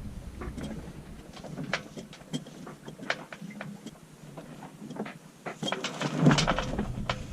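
Irregular small clicks and knocks, with a louder cluster of knocks and a low thump about six seconds in.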